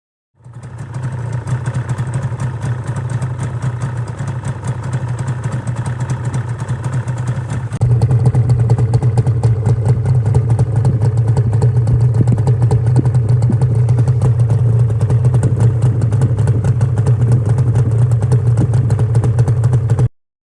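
Yamaha R1-Z's 250 cc two-stroke parallel-twin motorcycle engine running at a steady speed. About eight seconds in it suddenly gets louder, then it cuts off abruptly near the end.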